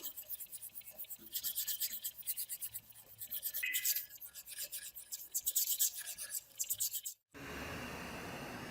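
Quick, repeated rasping strokes of hand rust removal on an old metal tool part. A little after seven seconds they stop abruptly and a steady hiss follows.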